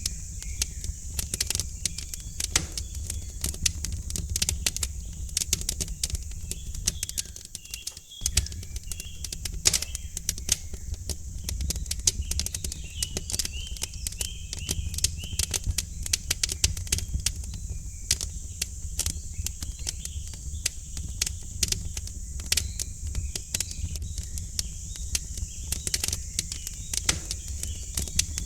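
Wood fire crackling in a fireplace, with many irregular sharp pops and snaps over a low rumble, and faint bird chirps in the background.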